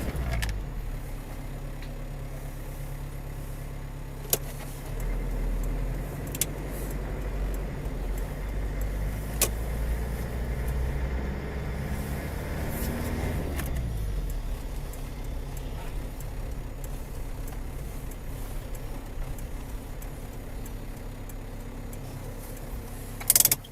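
Car engine and road noise heard from inside a moving car, a steady low hum whose pitch shifts around the middle, with a few sharp clicks. A loud, sudden noise comes near the end.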